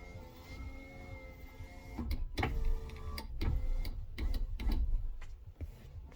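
Newly fitted electric window motor and regulator in an MG ZR front passenger door running with a steady whine for about two seconds, followed by a run of knocks and clicks. The replacement motor is now working.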